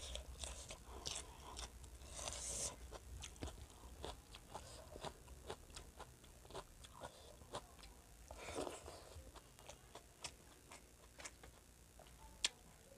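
Soft, close-miked chewing of rice and curry: wet mouth clicks and smacks, scattered irregularly, with two longer soft smacking sounds about two and a half and eight and a half seconds in.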